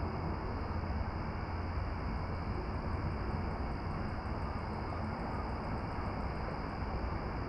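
Steady, even rushing noise with a deep low rumble underneath and a faint, fast high ticking through the middle.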